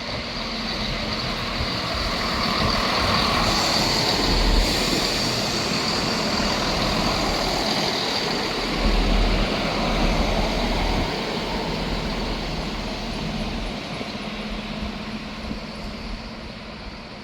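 ScotRail diesel passenger train arriving at the platform and braking to a stop. The rumble and rail noise swell during the first few seconds, then die away over the last several seconds as the train slows.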